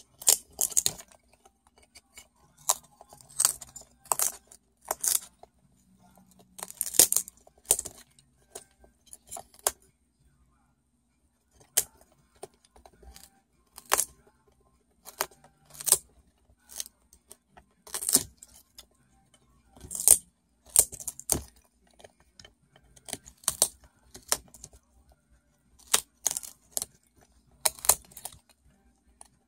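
A cockatoo busy with its beak, making irregular sharp clicks, snaps and rattles in clusters, with a short lull about ten seconds in.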